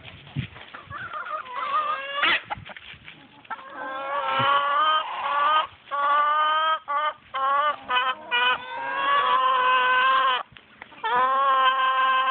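Chickens calling loudly, a series of long, drawn-out squawks with shorter calls in between.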